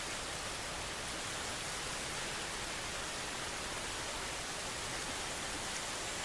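Steady outdoor nature ambience: an even rushing noise with no distinct events.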